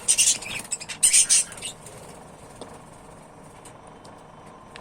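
Budgerigars squawking and chirping in the colony, two loud harsh bursts in the first second and a half, then only faint chatter.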